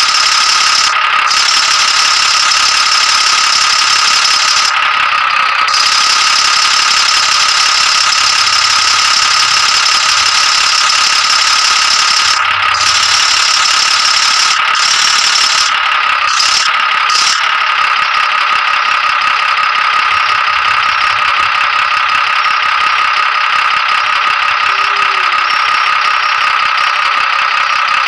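Tractor running steadily with a loud, constant high-pitched whine over a rattle, the pitch sagging slightly a couple of times.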